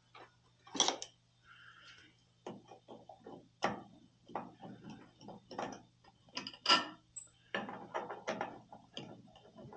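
Metal hand tools and small burner parts clicking, tapping and clinking irregularly while an oil burner is worked on, over a faint steady low hum. The loudest knocks come a little under a second in and near seven seconds.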